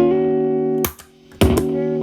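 Telecaster played through an MI Audio Crunch Box distortion pedal into a Marshall Valvestate amp's clean channel, at low gain with the guitar's volume rolled back for a cleaned-up crunch. A held chord rings, then a sharp scratchy hit comes just under a second in, a brief gap follows, and a second hit comes as the playing resumes.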